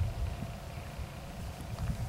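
Distant low rumble that almost sounds like thunder but keeps going without a break, with wind gusting on the microphone.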